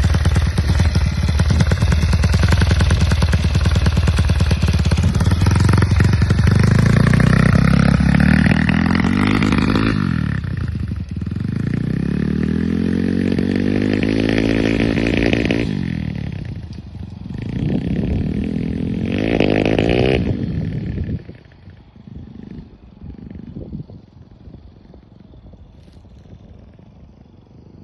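A 160cc single-cylinder dirt bike engine running loud and close, its pitch climbing over the first ten seconds as the bike accelerates. It then revs up and eases off twice more before dropping, about twenty seconds in, to a much quieter low rumble.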